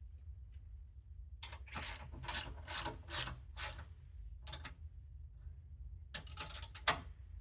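A ratchet spanner ratcheting in short strokes, several in quick succession a second or so in, one more a little later and a quick cluster near the end.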